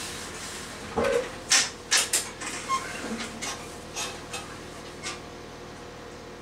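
A run of about ten sharp clicks and clunks from a moving train: a few loud ones close together about a second in, then softer and further apart, over a steady low hum.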